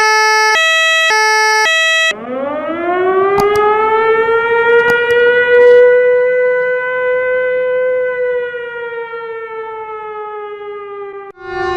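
Emergency vehicle sirens: a two-tone hi-lo siren alternating between a high and a low note about every half second, cutting off about 2 s in to a wind-up siren that climbs in pitch, holds and slowly winds down. Just before the end a steady horn-like tone begins.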